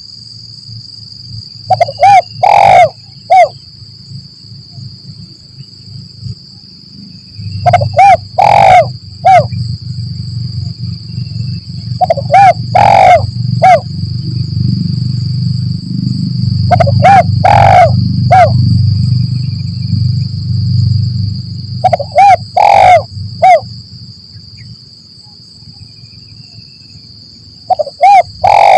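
Spotted dove cooing, used as a lure call: the same short phrase of about four coos, one of them longer, repeats about every five seconds. A steady high-pitched drone runs underneath, and a low rumble swells in the middle.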